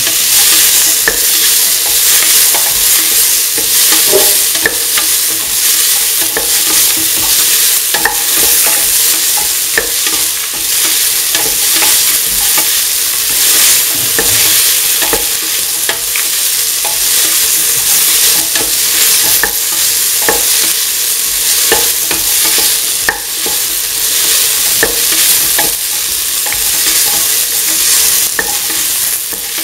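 Chopped vegetables (shallots, onion, chilies, winter melon and ivy gourd) sizzling steadily in hot oil in a pan while being stirred with a spatula, with frequent short clicks and scrapes of the spatula against the pan.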